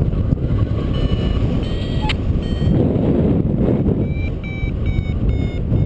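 A flight variometer beeping in short, rapid electronic tones, roughly two to three a second, with the pitch shifting, which signals that the glider is climbing. Heavy wind noise on the microphone runs underneath.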